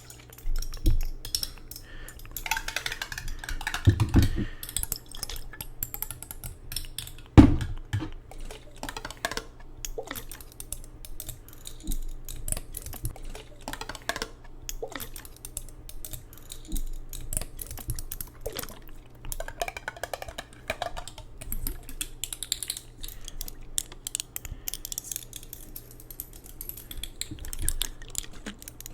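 Rapid, irregular tapping and clicking on hard objects for ASMR triggers, with a heavier thump about four seconds in and a louder one at about seven seconds.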